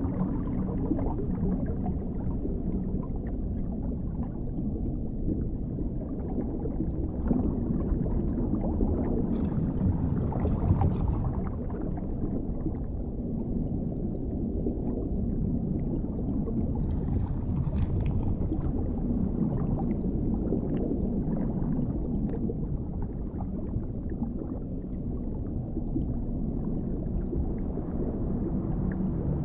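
Dark underwater ambience: a steady, muffled low rumble, with faint crackling flickers rising above it around ten seconds in and again near eighteen seconds.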